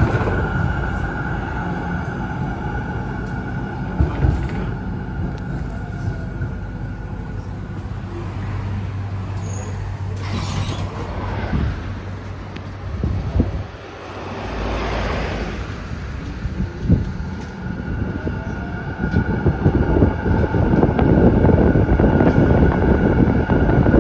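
Z3 class tram running along its track, heard from on board: a steady whine over the rumble of the wheels, with a few sharp knocks, two brief hissing swells midway, and the rumble growing louder near the end.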